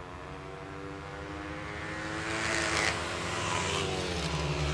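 Flat-track racing motorcycle engines running hard as the bikes race around the dirt oval, getting louder over the first couple of seconds and then holding steady.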